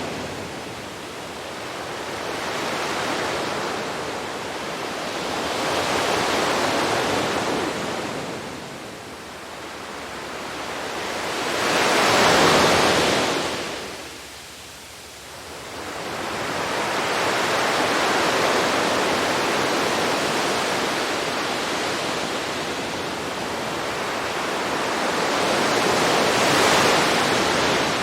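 Sea waves breaking on a beach and washing back, the surf swelling and fading in slow surges every few seconds, loudest about halfway through.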